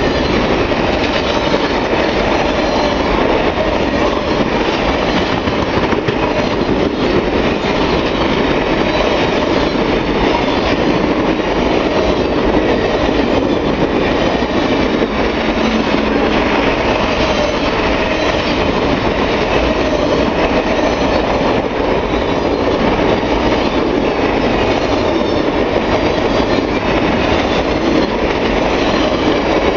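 Passenger train cars rolling past at close range: a loud, steady rumble of steel wheels on rail with clicking over the rail joints.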